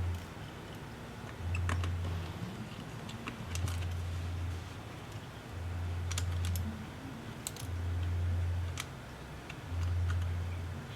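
A low hum that switches on and off roughly every two seconds, with small scattered clicks and taps of hand work on a device.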